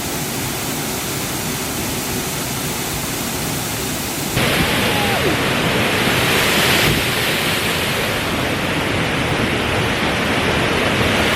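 Waterfall's steady rushing water noise. It gets louder and brighter about four seconds in and shifts again near seven seconds.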